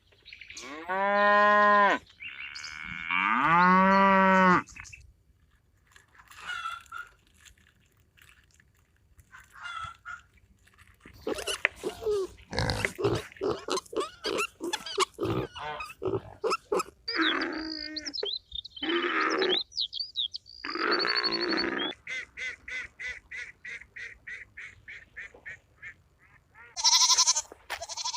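A string of different farm animal calls, one clip after another: two long, loud drawn-out calls near the start, a quick run of short rough sounds in the middle, a stretch of rapid even pulses, and two loud high calls near the end.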